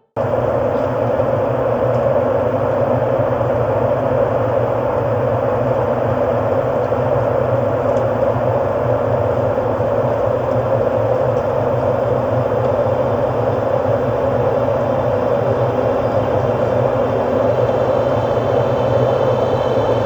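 Steady, noisy ambient drone like a machine or engine hum, with no melody; it starts abruptly just after the start and holds level throughout.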